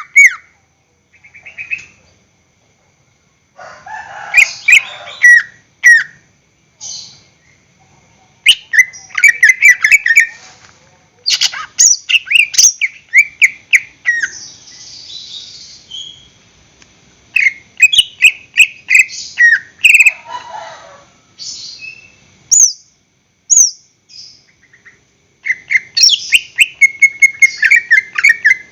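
Green leafbird (cucak ijo) singing: quick runs of sharp chirping notes that slide downward, in bouts separated by short pauses, with a few harsh rasping bursts mixed in.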